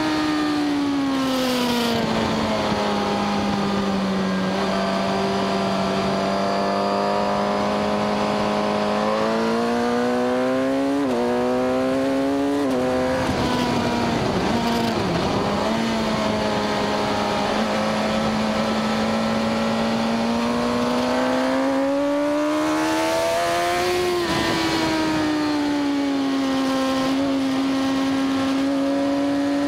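Suzuki GSX-R1000 inline-four engine at speed on a race track, heard from on the bike with wind rushing over the microphone. The engine note rises and falls with the throttle, drops suddenly at gear changes several times, and sags under deceleration about halfway through before climbing again.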